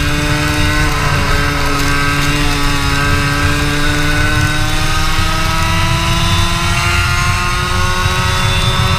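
Racing kart engine under way. The revs drop about a second in, then climb slowly and steadily for the rest of the stretch, over a constant low rumble.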